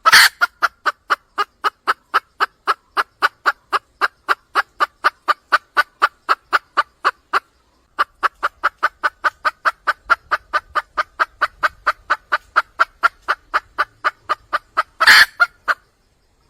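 Red junglefowl hen calling: a fast, even run of short clucks, about four a second, that breaks off briefly halfway and ends in one louder, longer note. It is the call a wild hen gives when seeking a male.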